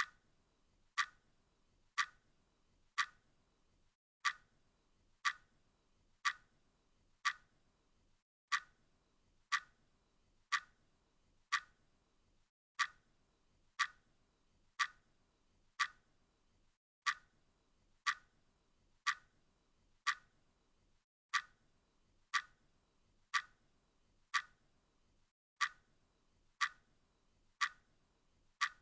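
Clock ticking steadily, about one sharp tick a second, each with a short ring. After every fourth tick there is a brief dropout, as where a sound loop repeats.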